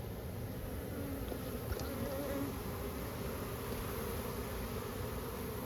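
Many honeybees buzzing together in a steady hum.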